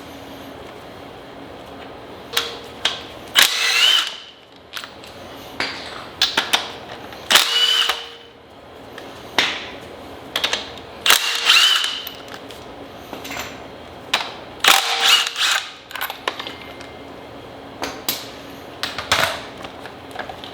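Cordless power tool run in short bursts of about a second, four times, each spinning up with a brief rising whine, with sharp clicks and knocks of tools and parts between them: fasteners being run out during an engine teardown.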